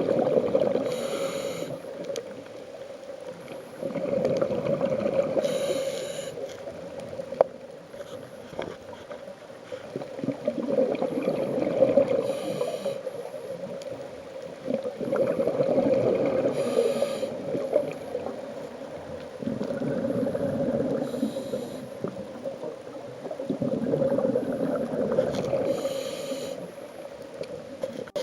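A scuba diver breathing through a regulator, recorded underwater: about six slow breath cycles, each a short hiss of inhaling followed by a few seconds of rumbling, gurgling exhaled bubbles.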